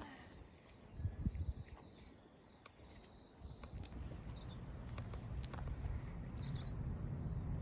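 Outdoor ambience with insects giving a steady high-pitched buzz. From about halfway through, a low rumble of wind on the microphone joins in and grows louder.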